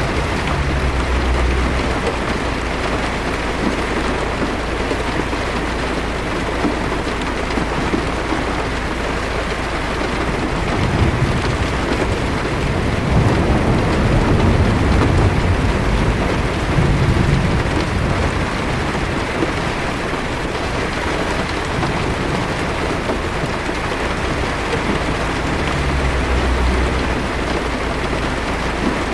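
Rain hitting a car's windshield in a steady hiss, with low thunder rumbling in the distance, swelling near the start, again through the middle, and near the end.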